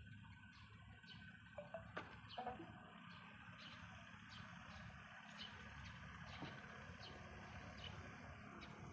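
Faint outdoor background: a steady low rumble with short high chirps repeating about once or twice a second, and a few light clicks about two seconds in.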